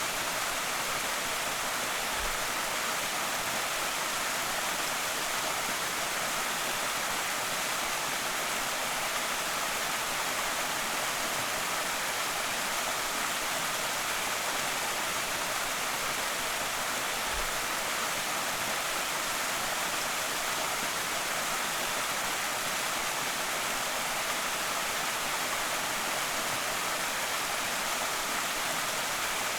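Creek waterfall: water pouring steadily over the falls in an even, unbroken hiss.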